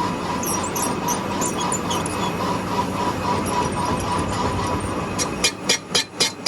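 Steady machine noise with a constant whine in a metal workshop. About five seconds in, rapid hammer blows start, about four a second.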